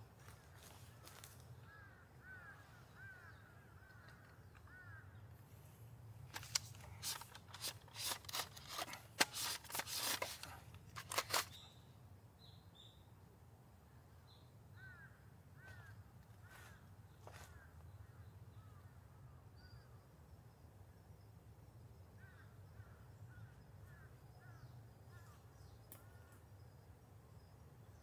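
Quiet forest ambience: a bird calls in short runs of quick repeated notes, three times over. In the middle, for about five seconds, a close run of loud sharp clicks and rustles stands out.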